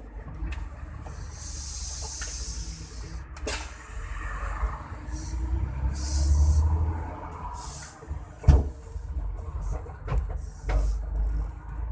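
Scania K113 diesel engine running with a steady low rumble that swells briefly about two-thirds of the way in, broken by repeated short air hisses and a few knocks, the loudest knock near the end.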